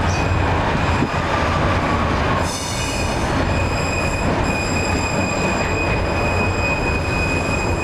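A 71-623 tram running on rails: a steady low rumble, with a high, steady squealing tone that comes in about two and a half seconds in.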